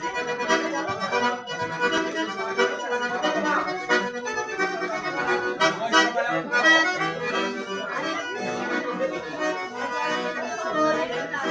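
An accordion playing a lively traditional tune, with notes and chords running on continuously.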